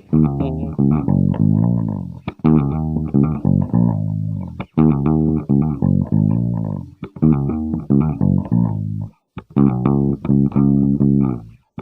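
Electric bass guitar, a 1987 Aria Pro PJ bass run through a Digitech BP80 amp-modelling pedal, played solo. It plays a busy line of quickly plucked notes in phrases a couple of seconds long, each broken off by a short silence.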